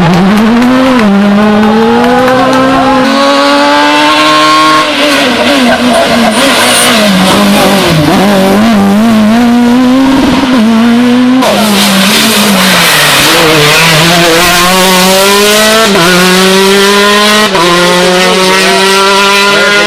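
Rally car engine at full throttle, loud, its pitch climbing and dropping again and again as it shifts gears and lifts for corners. The sound changes abruptly about eleven and a half seconds in, then climbs in steps through further upshifts.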